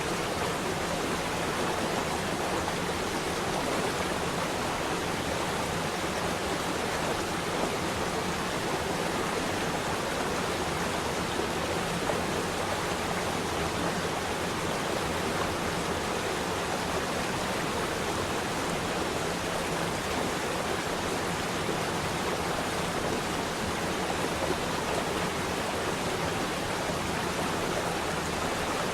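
Flowing water rushing steadily, an even unbroken hiss like a stream or small waterfall.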